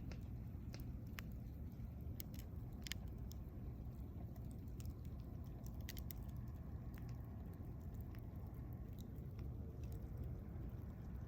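Campfire of burning wood: a steady low rumble with sharp, irregular crackles and pops, about one or two a second.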